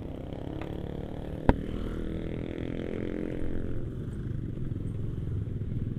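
Motorcycle engine running as the bike is ridden over a rough, potholed road, the engine pitch rising and falling a little. A single sharp knock about one and a half seconds in.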